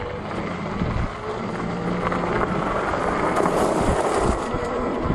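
Wind buffeting the microphone of a rider on a moving fat-tire e-bike: a steady rushing noise with a heavy low rumble, swelling a little past the middle.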